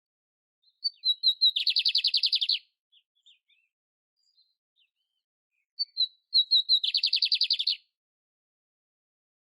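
A canário-império singing two phrases about five seconds apart. Each opens with a few short, high notes and runs into a fast, rattling trill lasting about a second, with a few soft notes between the phrases.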